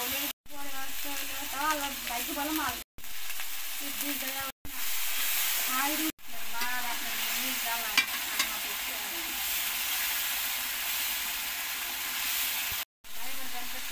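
Onions and ground spices frying in oil in an aluminium karahi, a steady sizzle as a metal spatula stirs and scrapes the pan, with a couple of sharp clacks of the spatula against the metal about eight seconds in. The sizzle is broken by several brief silences.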